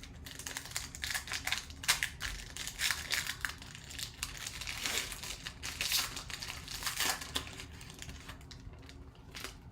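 Plastic wrapping of trading-card packaging being handled and torn open: irregular crinkling and rustling throughout.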